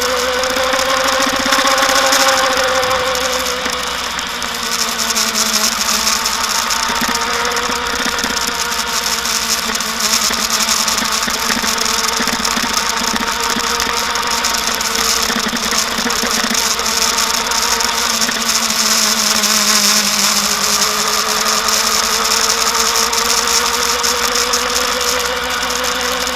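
Kawasaki Ninja ZX-10R's inline-four engine running steadily, its pitch drifting slowly up and down, with a constant hiss over it.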